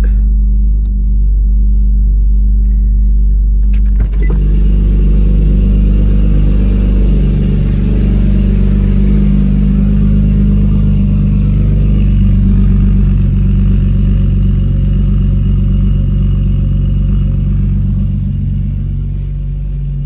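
Car engine idling steadily while it warms up after a start, a low rumble. About four seconds in there is a click, and a steady hiss joins the engine from then on.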